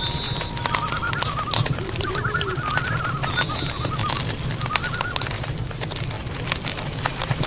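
Wood campfire crackling, with frequent sharp pops over a low steady rumble. Warbling bird calls sound behind it near the middle.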